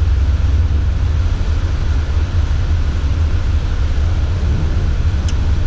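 Steady low drone of a 4x4 heard from inside the cab while driving on a snowy road, with one faint click near the end.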